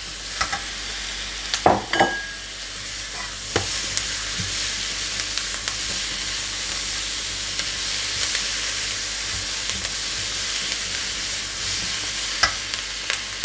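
Chopped bell peppers and onions sizzling steadily in hot oil in a frying pan over high heat while being stir-fried with a spatula. A few sharp knocks against the pan are heard, one of them ringing briefly about two seconds in.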